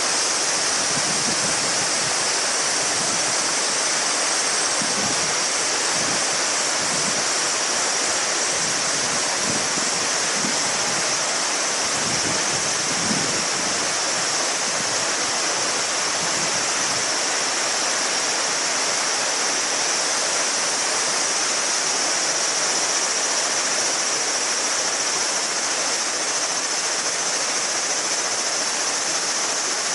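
A shallow mountain river babbling and rushing over stones, with a steady high-pitched chorus of summer cicadas ringing over the water.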